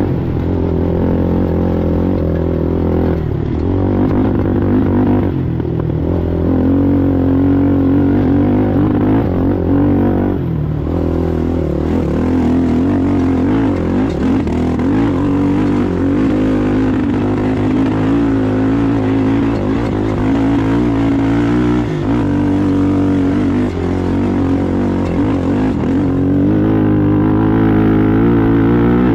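Sportsman-class ATV engine running hard at race pace, its pitch rising and falling as the throttle opens and closes, with brief lifts off the throttle a few seconds in and again around a third of the way through.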